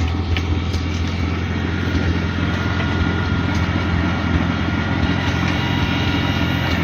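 Cub tractor engine running steadily.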